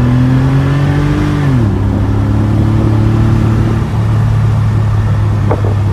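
Porsche 964's air-cooled flat-six pulling at part throttle in a low gear, revs rising for about a second and a half, then dropping sharply and holding steady.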